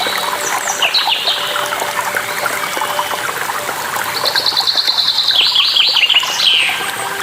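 Songbirds singing over the steady rush of a waterfall. Near the start come a few quick downward-sliding notes; about four seconds in, a fast run of repeated high notes lasts about two seconds and ends in falling notes.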